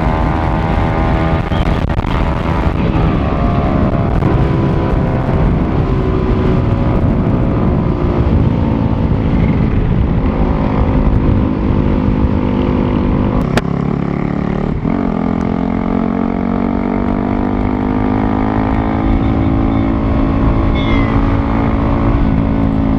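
The single-cylinder engine of a Yamaha R15 V3 running through an aftermarket Toce exhaust, heard from the moving bike with wind rushing over the microphone, the exhaust note drowning out everything else. The note holds fairly steady, then about 13 seconds in it drops with a click at a gear change and slowly climbs again.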